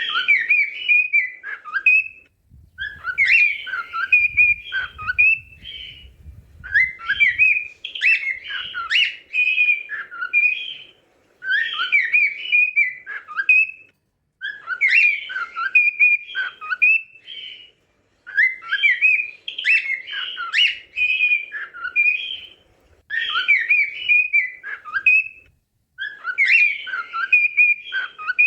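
Cockatiel whistling its song: the same warbling melodic phrase repeated about eight times, each a few seconds long, with short pauses between.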